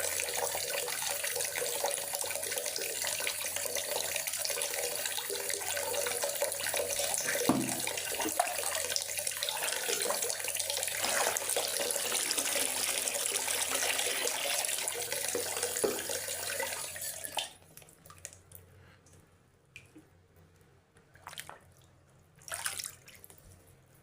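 Steady rain hissing in a forest, which cuts off abruptly about two-thirds of the way through, leaving a quiet stretch with a few scattered drips.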